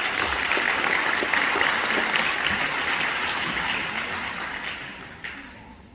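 An audience applauding, a dense patter of many hands clapping that dies away over the last second or two.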